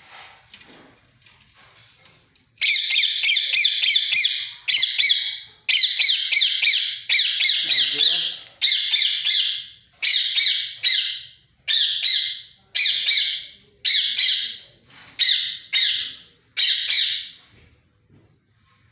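Parrot calling loudly in about a dozen bursts of a second or so each, separated by short gaps, beginning a few seconds in.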